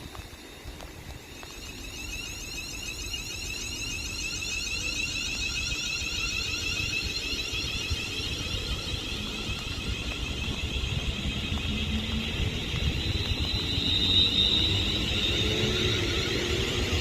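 Double London Northwestern Railway Class 350 electric multiple unit pulling away, its traction motors giving a many-toned electric whine that climbs slowly in pitch and grows louder as the train accelerates, with a rising low rumble beneath.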